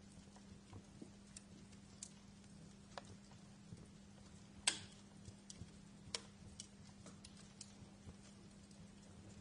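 Wood fire crackling in a fireplace: faint, irregular snaps and pops, with one louder pop a little under five seconds in, over a steady low hum.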